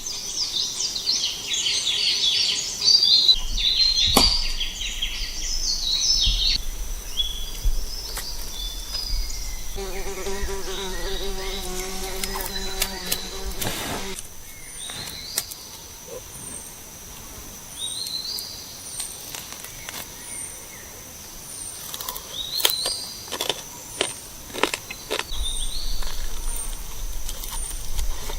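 Tropical forest ambience: birds chirping and singing in the first few seconds over a steady high insect whine, then a short high chirp repeating about once a second. Midway, a low pitched drone is heard for about four seconds, and there are a few sharp clicks.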